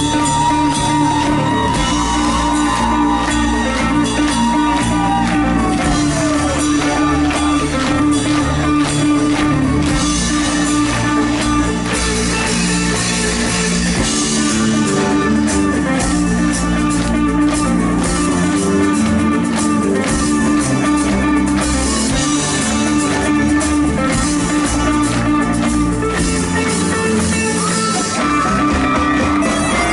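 Live rock band playing a passage without singing, electric guitar to the fore over bass and drums, with a sliding guitar line in the first few seconds.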